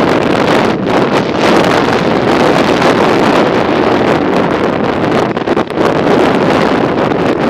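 Wind rushing over the microphone of a riding bicycle: a loud, steady rush of noise.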